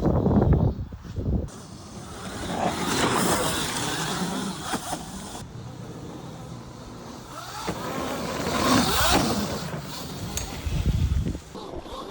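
EBOX electric pit bike being ridden hard around a track, its motor whine rising and falling in pitch with speed.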